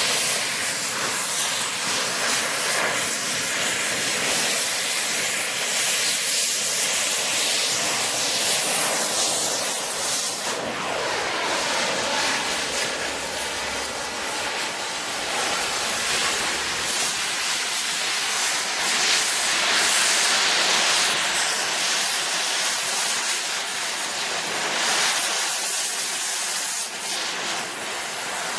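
Cutting torch hissing steadily while cutting into a steel safe.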